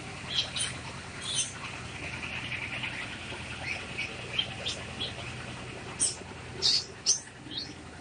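Small birds chirping: short, shrill, high calls at irregular intervals, with a cluster of louder ones near the end, over a steady low background hum.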